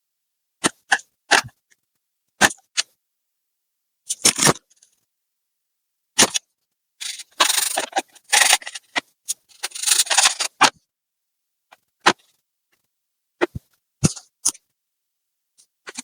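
Scattered sharp clicks and knocks of laptop parts and tools being handled, with two longer stretches of scraping or rubbing in the middle.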